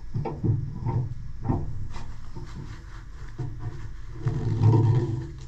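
Hand-tool work on the stuck steering wheel of a garden tractor: several sharp knocks in the first two seconds, then rubbing and scraping, louder near the end.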